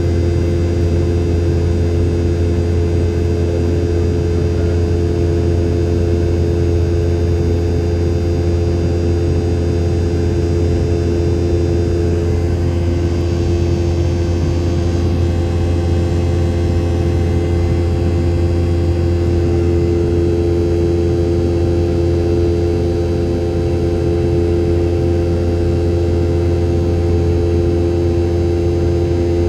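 Steady in-cabin drone of a Boeing 717-200 in flight, its two rear-mounted Rolls-Royce BR715 turbofans running at constant power: a loud low hum with several steady whining tones over it.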